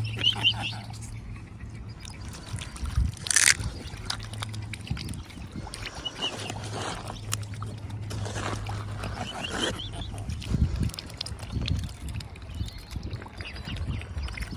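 Swans feeding in shallow water, their bills splashing and dabbling at the surface, with a few brief high chirping calls and one sharp splash about three seconds in. A low steady hum runs under the first half.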